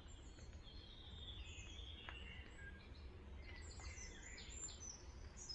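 Faint birdsong: scattered short, high chirps and trills over a low, steady background rumble.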